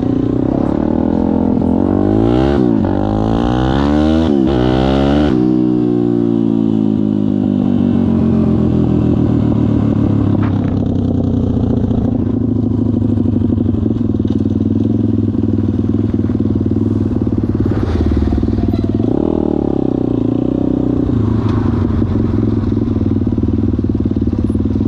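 Pit bike engine running and being revved: the pitch climbs sharply twice in the first five seconds, drops back, runs steadily, then rises and falls once more later on.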